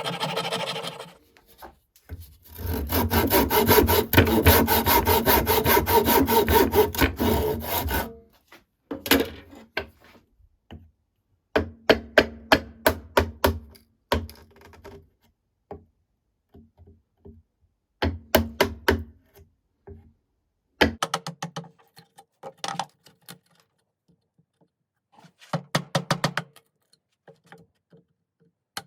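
A hand tool working wood with fast back-and-forth strokes. The strokes run steadily for several seconds, then come in short bursts separated by pauses.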